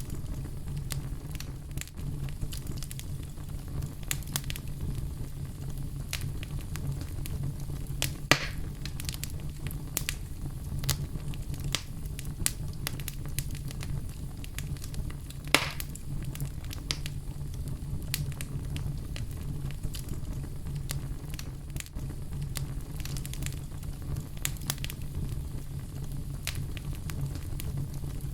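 Fireplace fire crackling, with frequent small snaps over a steady low rumble. Two louder pops come about 8 and 15 seconds in.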